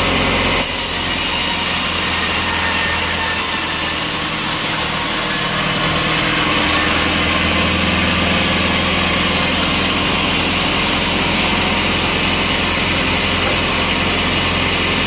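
Sawmill machinery running steadily: a low engine drone with a saw's high hiss over it that comes up about half a second in.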